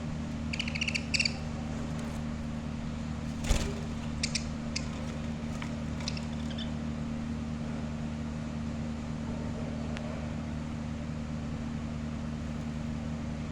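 Several short, high bird chirps in two brief clusters, with one sharp knock between them, over a steady low mechanical hum.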